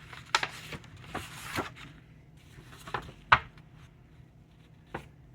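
Sheets of paper rustling and sliding as they are handled, with a sharp tap a little past the middle and a softer one near the end.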